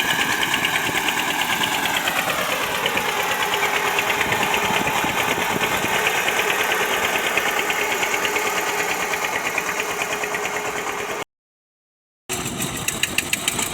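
Tractor diesel engine running with an even pulsing beat; its revs drop about two seconds in, then it runs steadily. The sound cuts out completely for about a second near the end.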